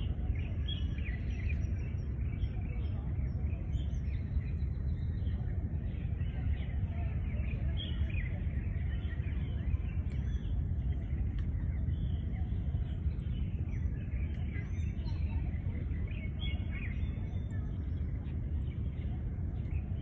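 Several birds chirping and trilling in short repeated calls throughout, over a steady low background rumble.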